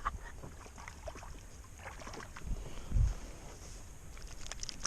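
Small knocks and clicks of gear being handled aboard a kayak, with one dull low thump about three seconds in.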